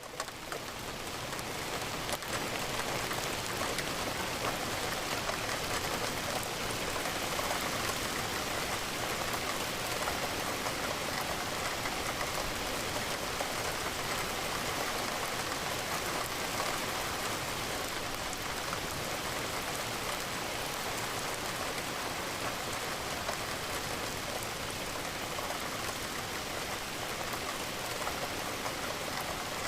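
Steady rain, an even hiss of many drops. It swells back up from a brief dip at the very start, over about two seconds.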